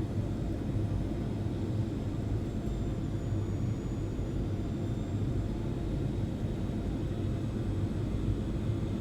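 Airliner cabin noise: the steady low rumble of the jet engines and airflow heard from inside the cabin, with a faint high whistle.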